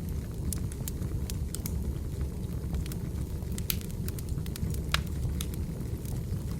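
Wood fire burning: a steady low rumble of flames with irregular sharp crackles and pops of burning logs, the loudest pop about five seconds in.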